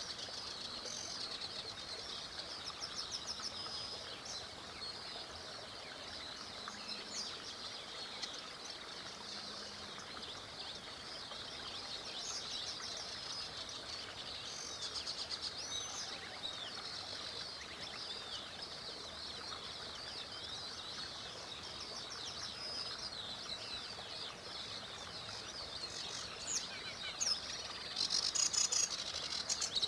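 Chorus of small songbirds singing and chirping, many short overlapping trills and calls over a steady hiss, with a louder run of sharp chirps near the end.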